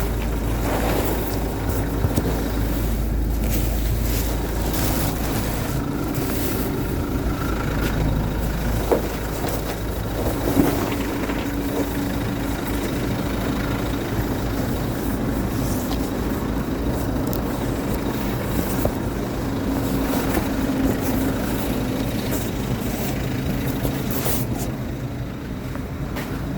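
A motor vehicle running, a steady low rumble that becomes lighter about ten seconds in.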